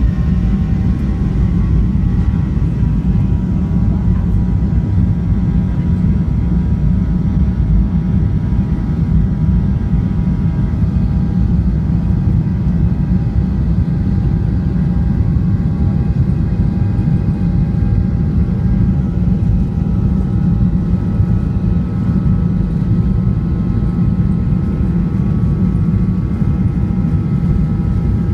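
Boeing 737-800's CFM56-7B jet engines at high takeoff thrust, heard inside the cabin: a loud, steady low rushing noise with several steady whining fan tones above it.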